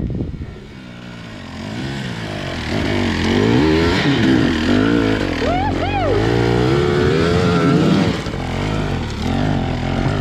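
Dirt bike engine revving up and down, its pitch swinging with the throttle and growing louder from about two seconds in.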